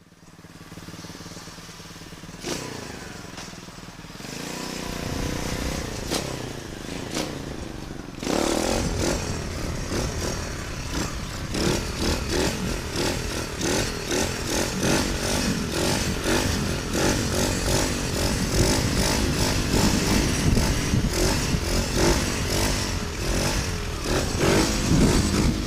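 Small pit bike engine running quietly at first. From about eight seconds in it gets much louder, its pitch rising and falling continually as the throttle is worked while riding.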